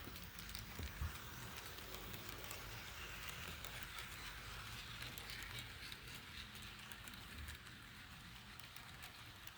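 Model freight train rolling along a floor-level track: a faint, steady rolling hiss with light clicks, and low thumps about a second in and again near the end.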